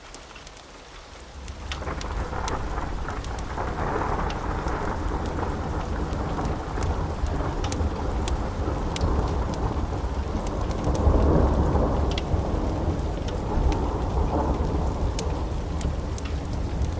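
Long rolling thunder over steady rain: the rumble builds about a second and a half in, swells loudest around the middle and keeps going, with scattered sharp drips ticking through.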